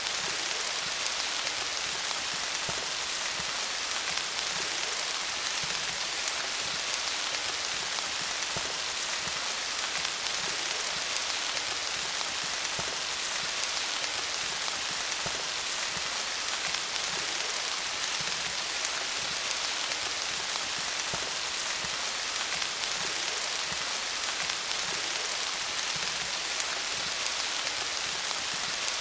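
Rain falling steadily on leaves, a dense even patter of drops without a break.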